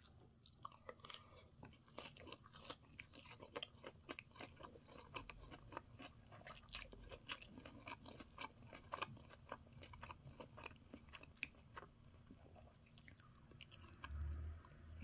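Faint chewing and crunching of a person eating, made of many small irregular clicks and crackles, with a soft low thump near the end.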